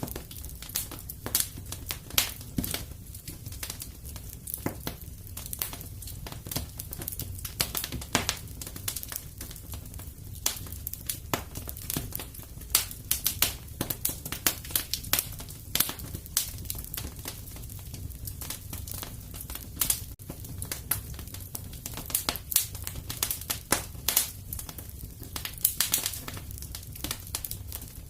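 Wood fire burning in a fireplace: a steady low rumble of flame under frequent irregular crackles and sharp pops from the burning logs.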